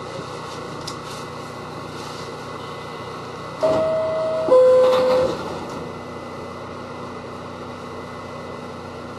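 Two-tone descending door-closing chime of an R68 subway car, a higher note then a lower one about three and a half seconds in, over the steady interior hum of the car. A faint steady low tone carries on after the chime.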